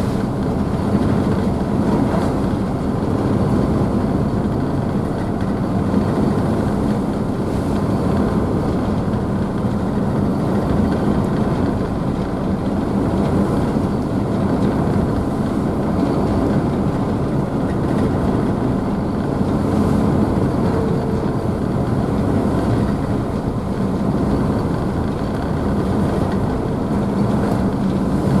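Ferry's engines running steadily with a constant low hum, mixed with the rushing of the wake and spray behind the stern.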